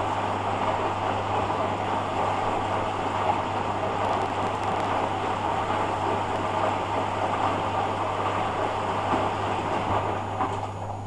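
Hoover Dynamic washing machine running its rinse cycle: a steady low hum under a continuous noisy churning of water and laundry. It eases slightly near the end.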